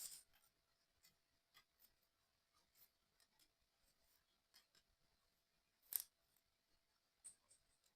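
Near silence broken by faint, scattered small clicks and taps of puzzle-kit parts being handled and fitted, with one sharper click about six seconds in.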